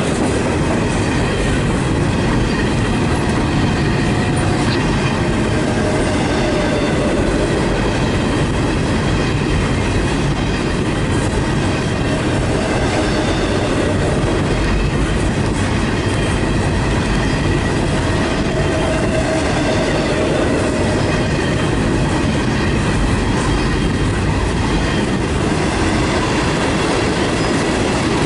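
Freight train rolling steadily past: steel wheels of double-stack container well cars, and later tank cars, rumbling and clicking over the rail, with faint wheel squeal now and then.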